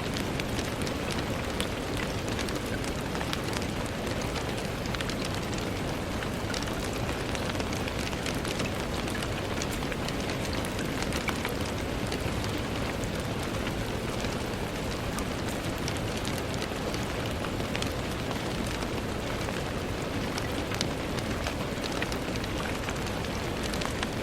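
Steady rain falling on a window, a dense even hiss with many small drops ticking against the glass.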